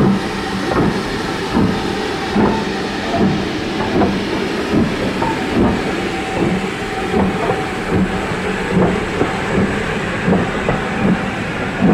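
Steam-hauled train on the move, with an even beat a little more than once a second over a steady hiss.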